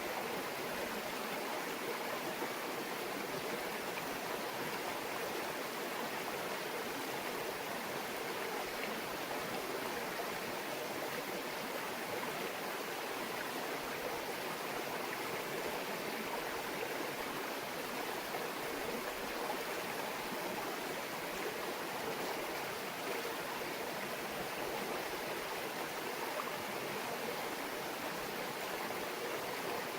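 Small mountain stream babbling steadily over rocks, an even rush of flowing water without breaks.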